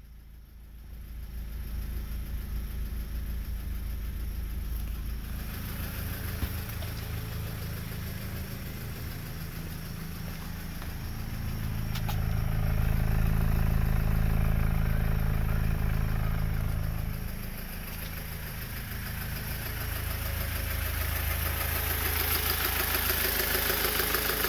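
Rebuilt 2007 Honda Accord 2.4-litre four-cylinder engine starting about a second in, then running at idle, speeding up for several seconds around the middle before settling back. The owner finds the valvetrain getting a little loud and thinks the valves need lashing again.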